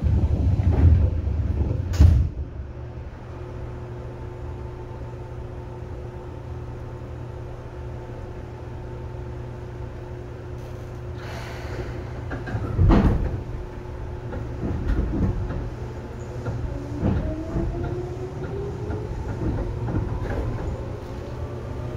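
Seibu 2000 series electric train: a low rumble ending in a sharp bang about two seconds in, then a steady hum. Near the middle comes a hiss and a heavy clunk. In the last few seconds the motor whine rises in several pitches together as the train speeds up.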